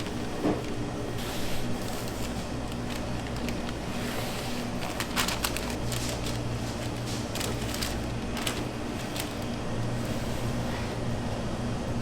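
Steady low machine hum, with a few light clatters and knocks in the middle.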